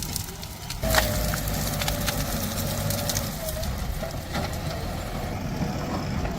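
JCB 3DX Plus backhoe loader's diesel engine running, with a sharp clank about a second in followed by a steady whine for a few seconds and scattered knocks and cracks.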